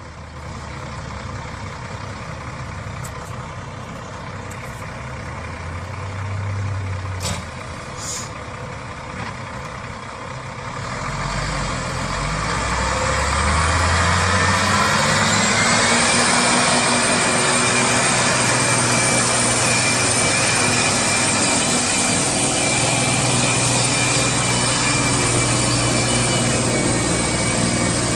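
Heavy truck engine running low at first, then revving up a little over ten seconds in and holding at a steady, louder, higher pitch.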